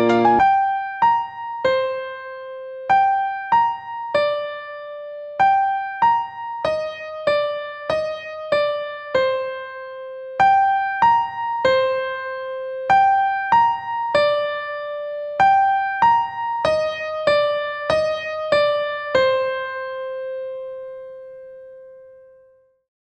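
Electric piano playing a slow, gentle melody of single notes that decay, ending on a long note that fades out.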